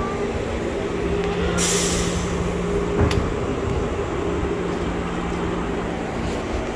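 Canada Line train stopped at a station platform, its equipment giving a steady hum. A loud burst of hiss comes about a second and a half in and lasts about a second, followed by a sharp click.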